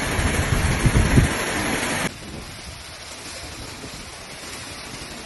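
Heavy rain and gusting wind, loud, with low rumbling buffets of wind on the microphone. About two seconds in it cuts to a quieter, steady hiss of wind-driven rain.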